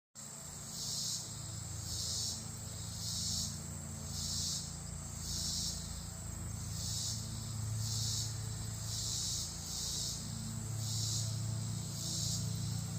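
An insect calling in rasping, hissy pulses, each about half a second long and coming roughly once a second, over a steady low hum.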